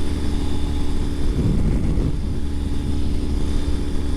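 Ural Gear Up sidecar motorcycle cruising at highway speed: the engine running steadily under a heavy, constant low rumble of wind and road noise.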